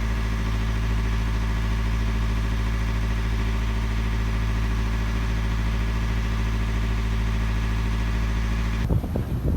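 A boat's inboard diesel engine running at a steady speed, an even drone that does not change. Near the end it cuts off abruptly and gusty wind and waves take over.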